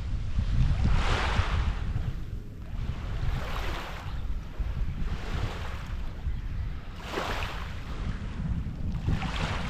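Small waves washing onto the shore in a slow rhythm, a hissing surge about every two seconds, with wind rumbling on the microphone throughout.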